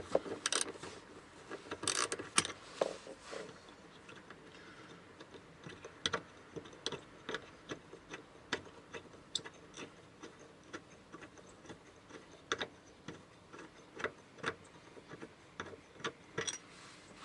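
Ratchet wrench with a 10 mm socket clicking as a bolt is undone, single sharp ticks spaced irregularly about a second apart, with a few louder knocks in the first three seconds.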